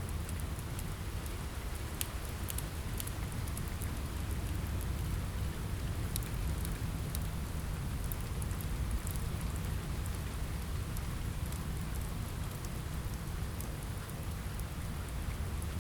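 Steady rain on a window, with a deep low rumble under it and scattered small sharp crackles from a fireplace.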